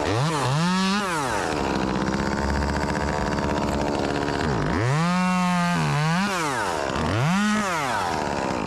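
Two-stroke chainsaw revved up and down several times, its pitch climbing and dropping, and held at high speed for a few seconds at a time in the middle.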